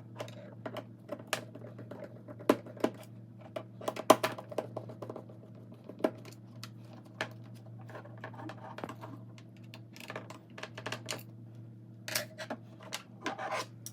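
Irregular small clicks and taps of a screwdriver and hard plastic parts as the jump starter cable's connector housing is unscrewed and opened, over a steady low hum.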